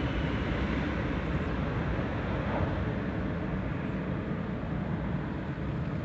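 Jet noise from a Boeing 737-400 freighter's CFM56-3 turbofans on approach: a steady, dense rumble that eases slightly near the end as the aircraft moves away.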